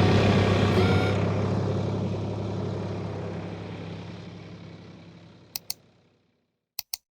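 Tractor engine running steadily, then fading out over several seconds. Two quick pairs of clicks follow near the end.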